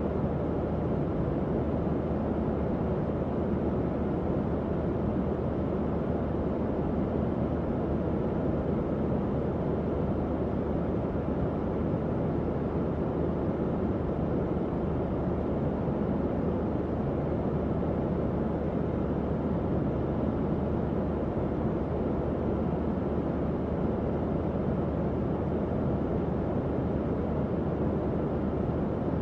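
Tower fan running steadily: an even, low airflow rush with a faint low hum beneath it.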